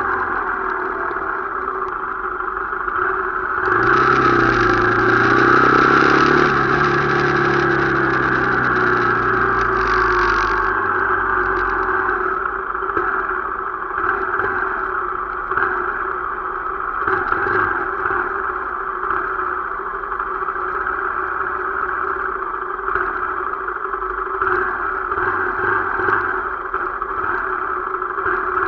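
Motorcycle engine running on the move. A deeper engine sound swells about four seconds in, then falls in pitch and fades by about eleven seconds in.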